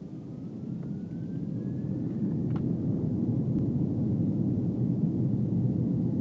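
Airbus A330-300's jet engines spooling up for the takeoff roll, heard from inside the cabin: a low rumble that builds over the first few seconds and then holds steady, with a thin whine rising in pitch over the first two seconds.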